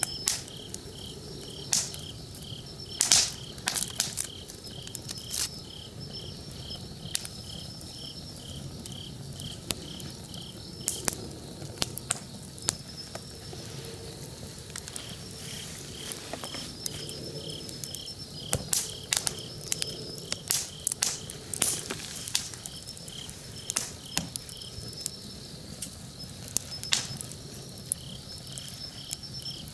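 Wood campfire crackling and popping irregularly, over insects chirping steadily in an even pulse of about four a second that pauses for a few seconds now and then.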